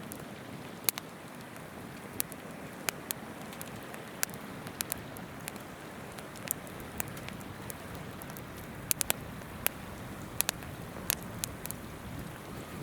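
Wood campfire crackling, with sharp, irregular pops scattered through, over the steady rush of a babbling river.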